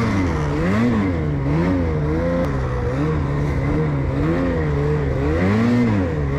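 Snowmobile engine under heavy throttle on a steep uphill climb, its pitch swinging up and down about once a second as the rider works the throttle.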